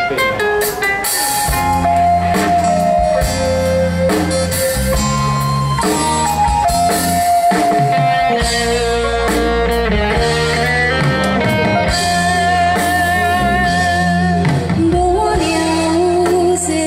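Live band playing a song's instrumental introduction: long held melody notes with vibrato over bass, guitar and drum kit.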